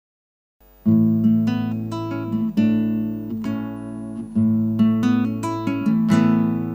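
Acoustic guitar starting a song's introduction about a second in, playing a run of chords whose notes ring on between strokes.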